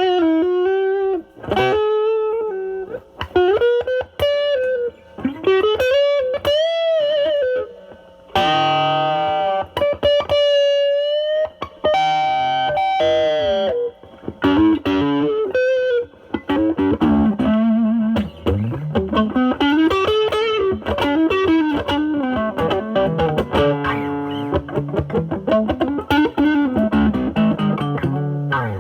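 Semi-hollow electric guitar through a NOBELS ODR-1 overdrive (bass-cut mod) into a Marshall Valvestate's drive channel, cleaned up to a lightly driven tone, playing blues lead lines. There are wide string bends with vibrato and a couple of ringing chords.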